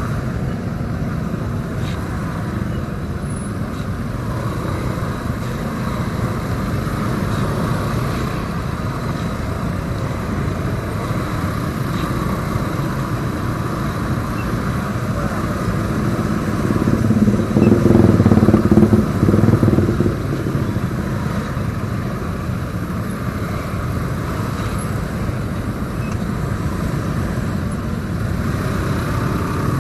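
Motorcycle on the move with wind rushing over the action camera's microphone, a steady road noise that swells louder for a few seconds about two-thirds of the way through.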